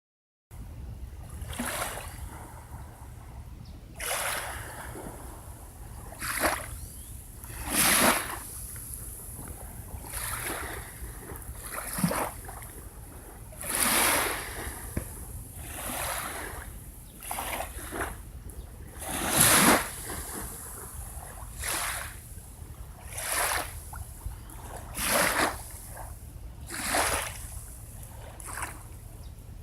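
Small waves breaking and washing on a beach in a rhythm of one every second or two, over a steady low rumble.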